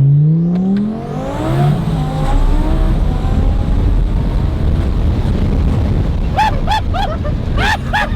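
Twin-turbo Audi R8 V10 accelerating hard: the engine note climbs fast in the first second, climbs again briefly after a shift, then gives way to a steady rush of engine, turbo and road noise at speed. In the last couple of seconds a person laughs in short repeated bursts over it.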